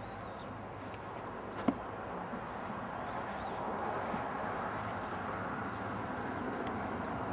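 A small songbird chirping a quick run of short, high notes from about halfway through, over steady outdoor background noise. A single sharp click comes about a second and a half in.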